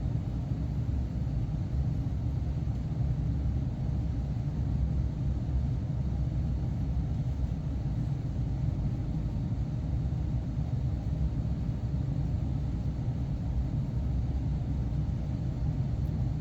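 A steady low rumble, even and unbroken.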